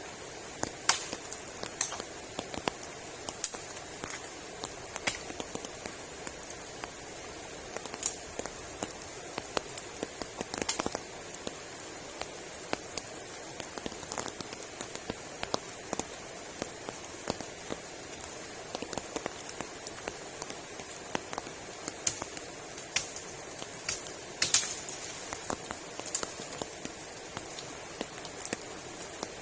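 Steady rain, a constant hiss with many irregular sharp drops striking close by.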